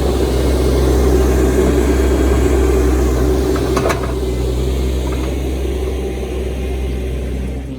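Heavy machine engine running steadily at an even, low pitch, with a few faint clicks about four seconds in.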